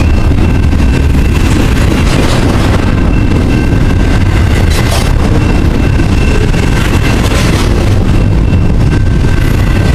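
Freight train rolling past at close range: a loud, steady rumble of wheels on rail, with two faint, steady high-pitched tones riding over it.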